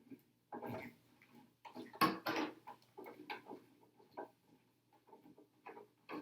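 Small hard-plastic RC body parts being handled and a small screw being turned in with a 2mm driver: irregular light clicks and scrapes, with a louder rustle about two seconds in.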